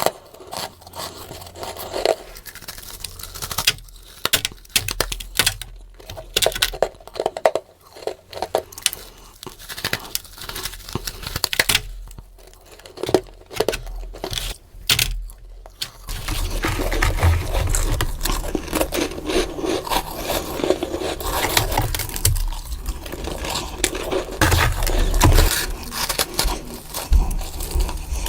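Close-miked biting and chewing of soft, crumbly freezer frost, played back sped up. For about the first half it comes as separate crisp crunches with short gaps; from about halfway it turns into denser, continuous crunching and chewing.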